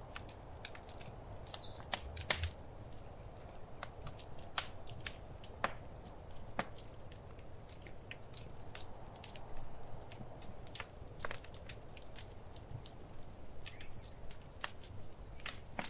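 Fireplace fire crackling, with irregular sharp pops of varying loudness over a low steady rumble.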